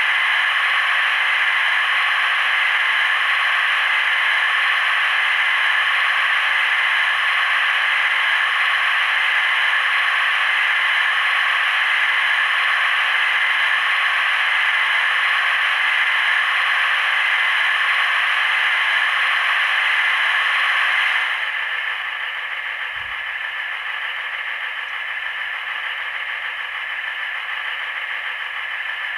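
Sound-fitted model Class 156 diesel multiple unit's decoder playing a steady diesel engine sound through its small speaker, thin and without bass. About 21 seconds in it steps down, quieter and duller.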